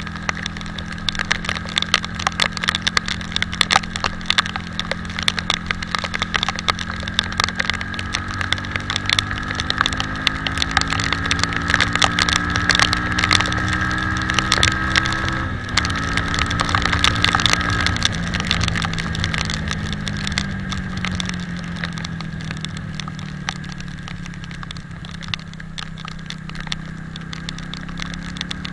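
Italika 250Z motorcycle engine pulling through the gears: its pitch climbs steadily, drops sharply once at a gear change about halfway, climbs again, then falls slowly as the bike slows. A dense crackle of rain striking the camera runs over it.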